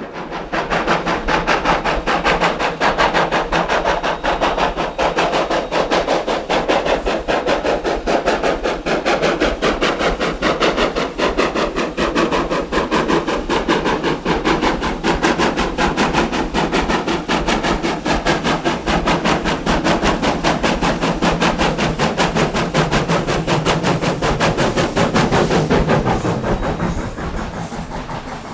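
2-8-0 steam locomotive working under steam, its exhaust beating in a rapid, even rhythm. The sound falls away near the end.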